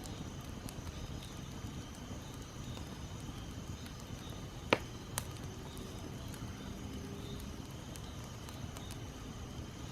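Wood campfire burning with a steady low rush, and two sharp pops of crackling wood about halfway through, the first the louder.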